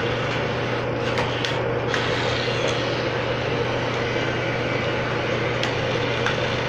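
Steady, unchanging mechanical hum with a low drone and a fainter higher tone above it.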